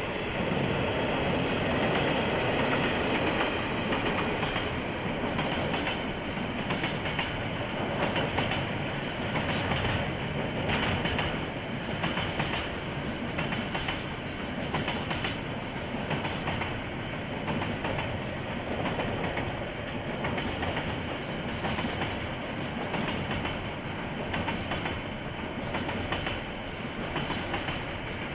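KiwiRail train rolling past, its wheels clicking steadily over the rail joints, heard through a security camera's microphone.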